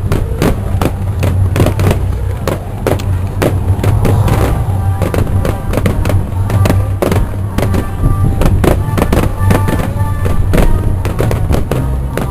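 Fireworks going off in rapid, irregular succession: many sharp bangs and crackles, several a second, over a steady low rumble.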